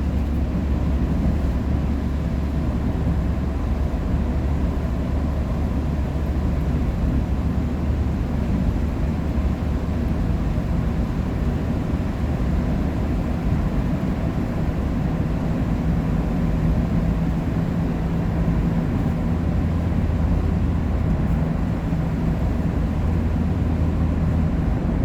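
Steady low engine drone and road rumble of a vehicle, heard from inside the cabin.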